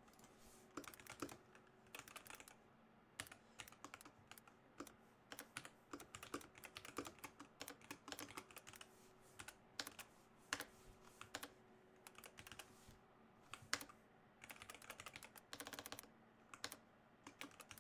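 Computer keyboard typing in irregular runs of keystrokes with short pauses, over a faint steady electrical hum.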